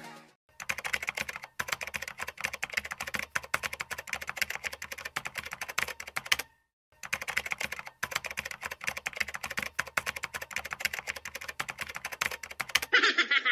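Keyboard typing sound effect: a fast, uneven run of key clicks that pauses briefly now and then, with a short louder sound near the end.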